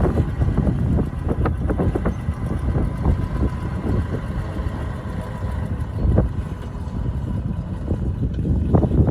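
Diesel engine of heavy earthmoving machinery running steadily with a low rumble, with scattered short metallic knocks over it.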